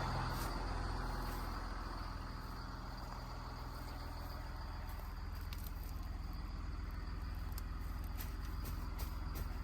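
A motor vehicle's engine running steadily with a low drone, with a faint steady high-pitched whine above it.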